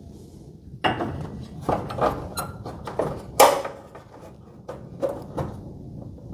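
Irregular knocks and clanks of tools and garage door hardware being handled, about eight sharp strikes spread unevenly, the loudest about three and a half seconds in.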